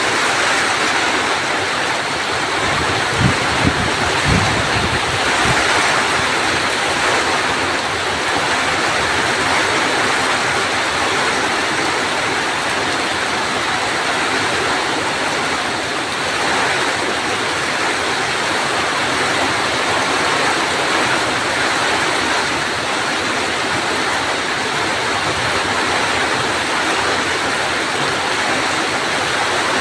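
Rain falling steadily, a dense even hiss, with a few brief low thuds about three to four seconds in.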